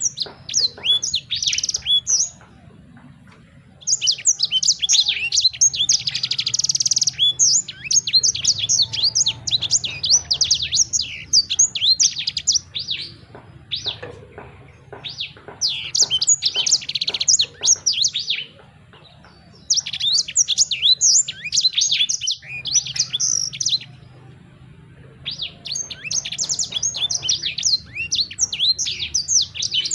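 Songbird singing in long runs of rapid, high chirps and quick sweeping notes, broken by a few short pauses. This is a bird-song recording of the kind played to prompt a silent caged bird to sing.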